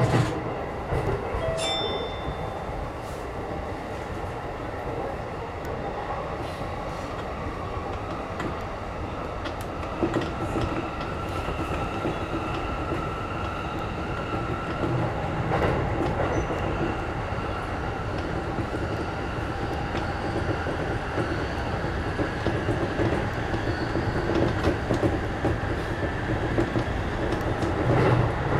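E233 series electric train running on elevated track, heard from inside the front car: a steady rumble of wheels on rails with some clatter, growing louder about ten seconds in.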